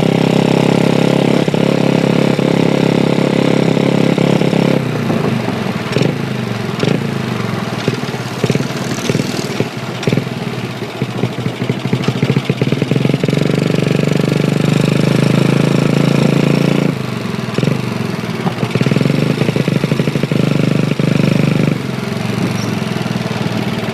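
A Honda Chaly minibike's small single-cylinder four-stroke engine (a Wave 100 engine) running while the bike is ridden. The engine note is steady at times and turns choppy and uneven about five seconds in and again past the middle.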